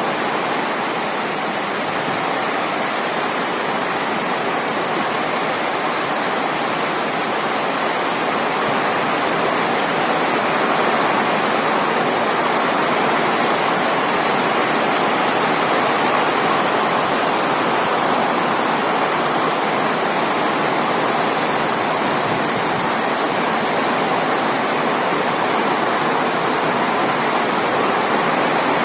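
Heavy rain pouring down in a steady hiss, with wind.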